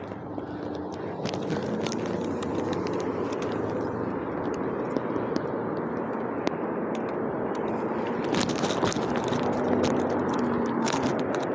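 Steady vehicle noise, growing gradually louder, with scattered short clicks.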